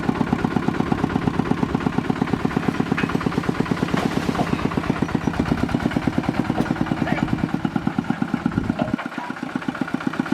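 Engine idling with a slow, even chug of about five beats a second. About nine seconds in, the deep rumble thins out.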